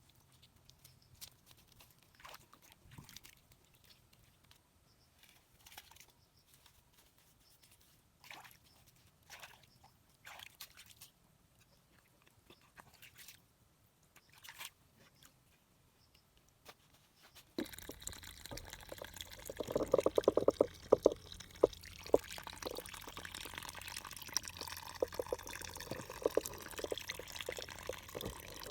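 Faint scattered clicks and rustles, then, after a sudden change about two-thirds of the way in, louder water sounds: dripping and splashing with many sharp clicks.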